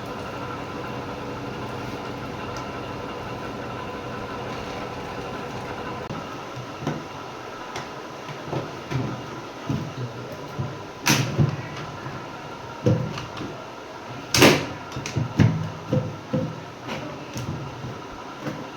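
A steady hum, then from about six seconds in irregular knocking and clattering of hard plastic RO water purifier parts being handled, with two sharp, loud clicks partway through.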